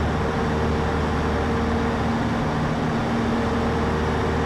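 Cessna 152's four-cylinder Lycoming engine and propeller droning steadily in cruise, heard inside the cockpit as an even hum with a few steady tones.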